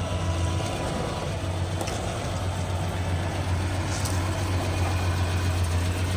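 Toyota LandCruiser 80 Series engine running steadily at low revs, a constant low hum with no change in speed.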